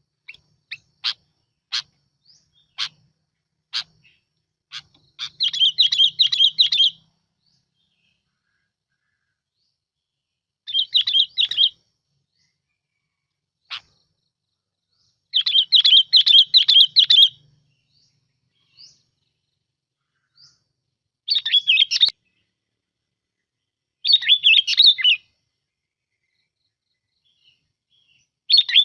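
Bulbul (bông lau) singing. It opens with a few single sharp call notes about a second apart, then gives short phrases of rapid, bubbling notes, each lasting one to two seconds and repeating every few seconds.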